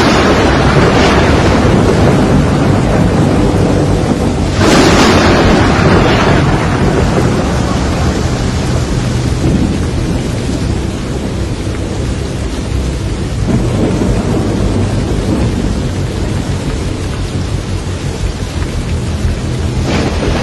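Thunderstorm: steady heavy rain with two loud thunderclaps, one at the start and one about five seconds in, each rumbling away over a few seconds, and a softer rumble of thunder about halfway through.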